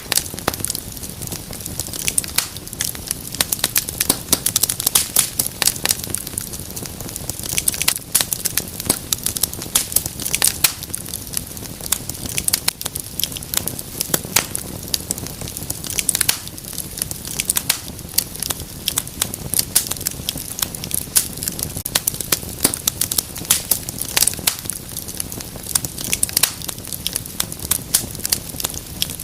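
Wood fire crackling in a fireplace: dense, irregular sharp pops and snaps over a steady low hiss of burning.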